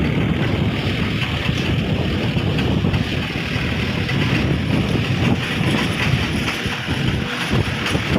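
Wind buffeting the microphone in a steady, fluttering rumble, over a constant hiss.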